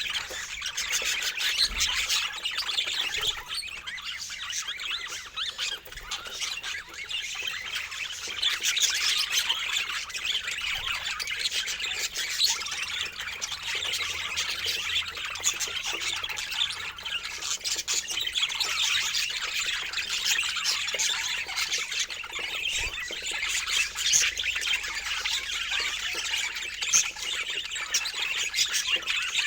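A flock of birds calling all at once: a dense, continuous chorus of overlapping squawks and chirps.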